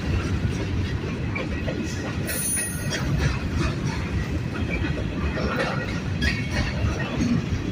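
Freight train rolling past: a steady rumble of wheels on rail with repeated clacking, and a brief high wheel squeal about two and a half seconds in.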